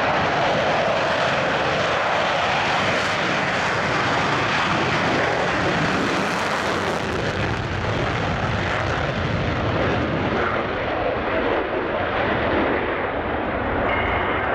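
Military jet engine noise, a loud steady roar with a hiss that grows brighter around the middle and then eases.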